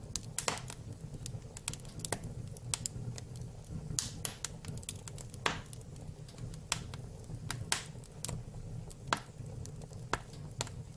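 Wood fire burning in a fireplace: irregular crackles and sharp pops over a steady low rumble of flame.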